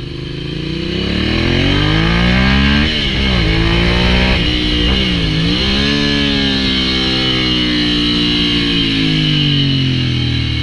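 Ducati Hypermotard 796's air-cooled L-twin through an SC-Project full exhaust, loud and pulling up through the revs. The pitch drops sharply twice in the first half, then climbs again, holds, and eases off near the end.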